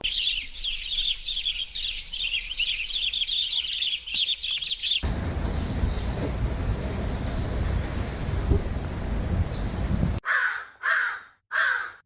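Small birds chirping densely together, cut after about five seconds by a steady rushing noise. Near the end, a large bird gives harsh repeated caws, about two a second.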